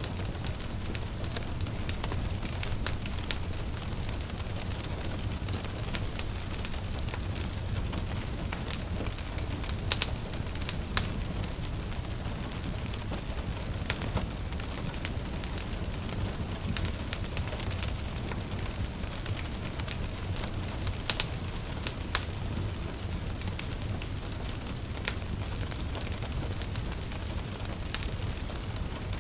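Wood fire crackling with frequent sharp pops over gentle steady rain and a low rumble.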